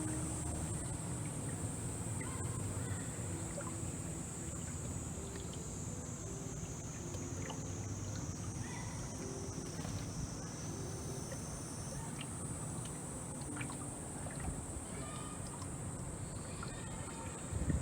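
A small sightseeing boat moving along a river: a low steady hum with water sounds, under a steady high-pitched drone. A brief low thump comes near the end.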